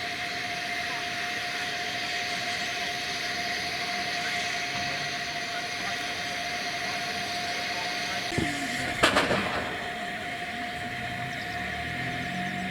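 Narrow-gauge Hunslet saddle-tank steam locomotive working a train round curves while struggling for grip on the rails, a steady rushing noise with one sharp loud crack about nine seconds in.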